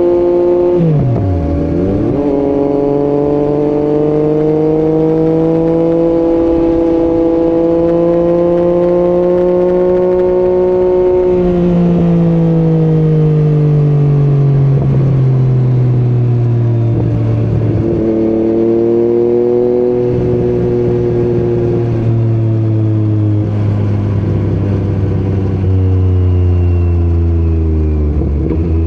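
Yamaha MT-09 inline-three motorcycle engine running through an Akrapovic exhaust under way. Its note holds steady for stretches and dips briefly several times as the throttle is rolled off and back on.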